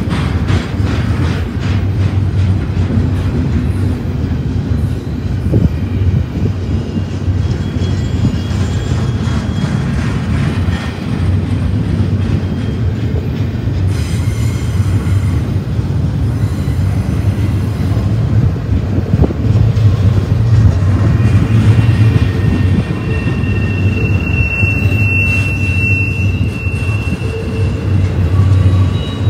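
Double-stack container train rolling past close by: a steady rumble of steel wheels on the rails. A thin, high wheel squeal comes in past the middle and lasts about five seconds.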